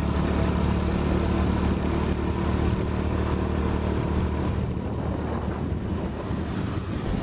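Small single-cylinder motorcycle engine running steadily under way, with heavy wind buffeting the microphone.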